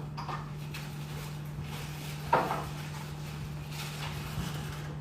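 A few short knocks and clatters of household things being handled, over a steady low hum.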